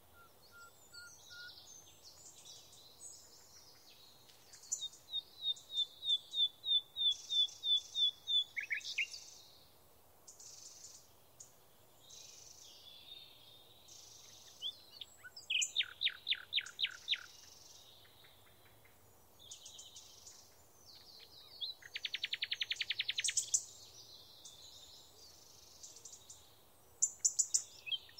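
Small birds singing: phrases of repeated high chirps and fast trills with short pauses between them, including a run of about a dozen even chirps some five seconds in and rapid trills near the middle and about two-thirds through.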